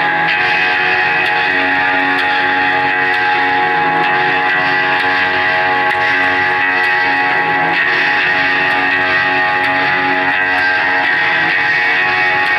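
Live band music led by guitar: loud chords held and ringing, the notes sustained steadily with little change.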